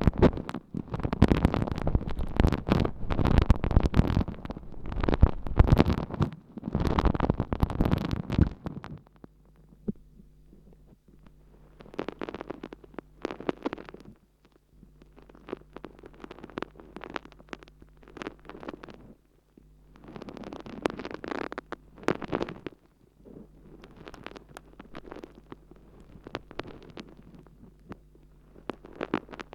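Water-soaked sponge squishing and crackling wetly against a binaural ear microphone. It is dense and loud for the first nine seconds or so, then comes in shorter, quieter spells over a faint steady hum.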